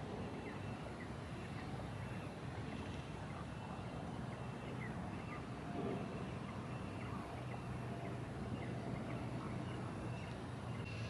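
Outdoor ambience: a steady low rumble with faint, short chirps scattered throughout.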